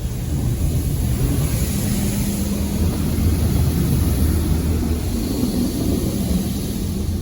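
PDQ LaserWash 360 touchless car wash running: water jets spraying hard against the car over a steady low rumble and hum from the wash machinery.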